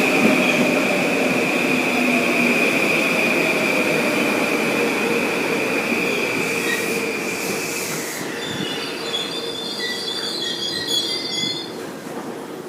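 Train wheels squealing on the rails as a train moves through the station: one steady high squeal that fades about eight seconds in, then several higher squeals that flicker and die out as the train noise dwindles.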